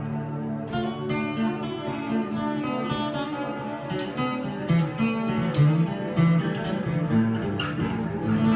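Instrumental acoustic guitar music: picked and strummed guitar notes over held low bass notes.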